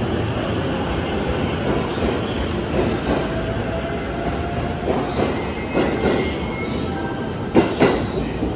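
E257 series electric train pulling out past the platform, its wheels and rails making steady running noise with a faint squealing tone in the middle. Two sharp clacks come in quick succession near the end as the last car goes by.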